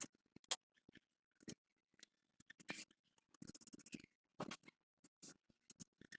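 Scattered light clicks, taps and short scrapes of small objects being handled, with a brief rattling scrape about three and a half seconds in.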